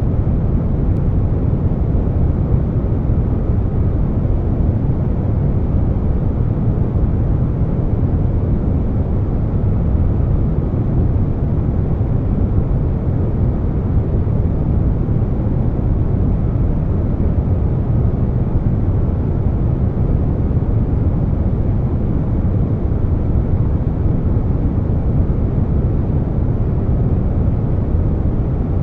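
Air conditioner running, layered with brown noise: a steady, even noise weighted to the low end, with no changes.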